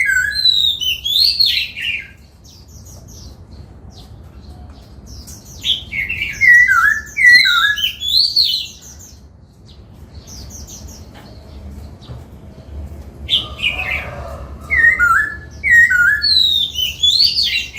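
Laughingthrush singing in three bouts of loud, varied whistled phrases, the notes sweeping quickly up and down, with pauses of a few seconds between bouts.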